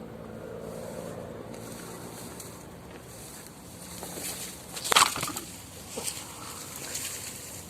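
Thin bamboo canes being handled and set in place, a low rustling with one sharp crackle about five seconds in and a couple of lighter knocks after it.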